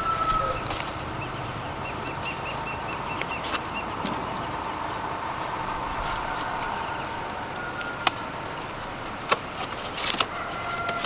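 Rural outdoor ambience with insects chirping. A rooster's crow trails off about a second in and another begins near the end, and a few sharp knocks fall in between.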